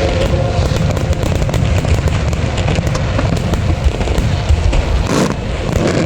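Aerial fireworks going off continuously: dense crackling over a heavy low rumble of shell bursts, with one brief rushing burst about five seconds in.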